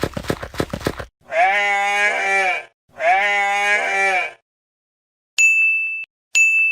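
The end of a music beat about a second in, then two long bleats, each over a second long, of a sheep or goat. Near the end come two bright ding chimes about a second apart.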